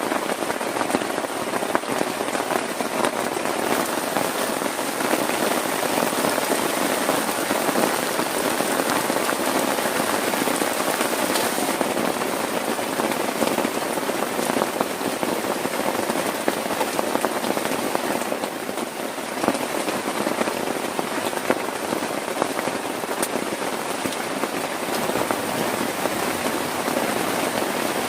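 Heavy rain falling steadily on a tent's plastic tarp: a dense, even patter of countless drop hits.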